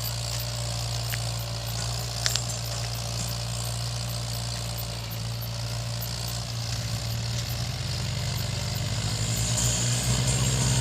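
Mahindra 475 tractor's diesel engine running steadily, its note shifting and getting louder from about seven seconds in. A short click about two seconds in.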